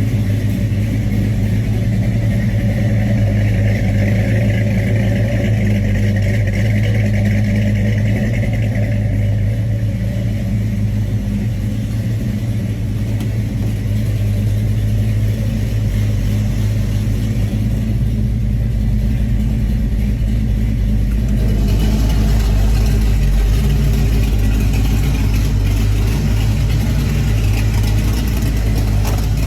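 Muscle car engine with twin carburetors running steadily at idle. About two-thirds of the way in, a rougher, hissier sound joins it.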